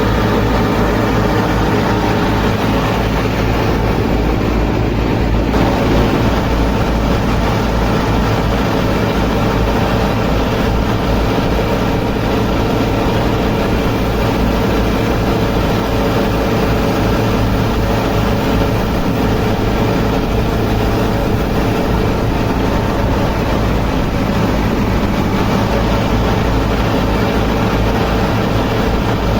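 Motor of a small home-built mini tractor threshing machine running steadily at constant speed, with a fast even rattle.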